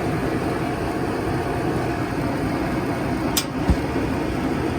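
Kenmore gas dryer running, its motor turning the drum with a steady rumble, with a sharp click and then a low thump about three and a half seconds in. The dryer spins without heating, a fault traced to a blown thermal fuse.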